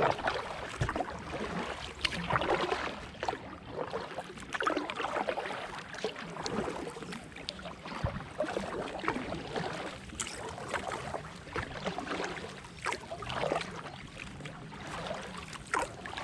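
Kayak paddle strokes: the blades dip and splash in the river water every second or two, with water trickling off the blades between strokes.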